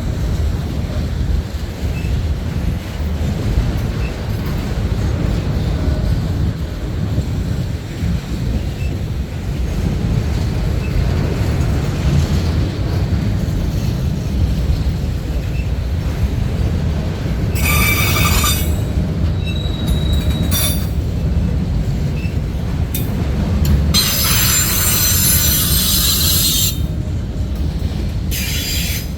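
Freight train rolling past with a steady low rumble of wheels on rail. In the second half the wheels squeal in high-pitched bursts, several short ones and one longer one lasting a few seconds.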